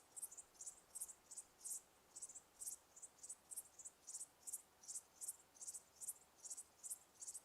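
Crickets chirping: short, high-pitched chirps repeating about three times a second, unevenly, over a faint hiss.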